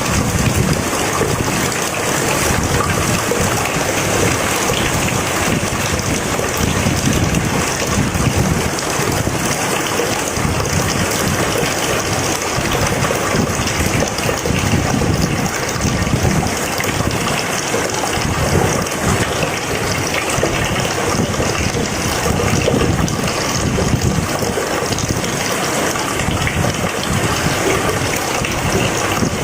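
Steady heavy rain: a dense, even hiss with an uneven low rumble underneath.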